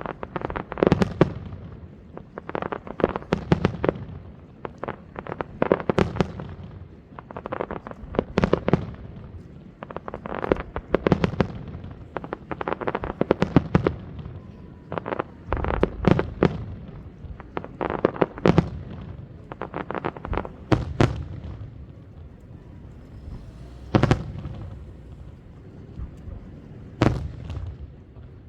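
Aerial fireworks shells bursting in quick volleys, sharp bangs with booming low end and crackle. The barrage thins near the end to a few single bangs several seconds apart.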